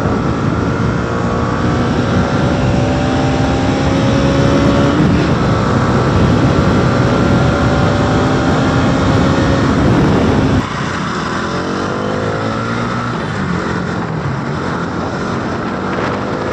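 Motorcycle engine running hard at high road speed under a steady rush of wind noise, its pitch climbing slowly as it accelerates. About ten seconds in the sound drops abruptly, and the engine pitch starts climbing again.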